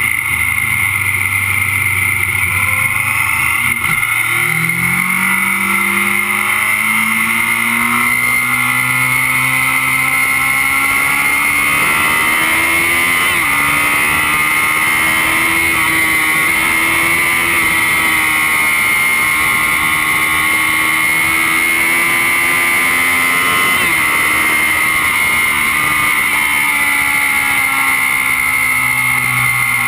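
Kawasaki Z750's inline-four engine running hard on board over a steady rush of wind and a constant high whistle. The engine note is low and steady at first, climbs steadily from about four seconds in with brief breaks around thirteen and twenty-four seconds, then falls away over the last few seconds.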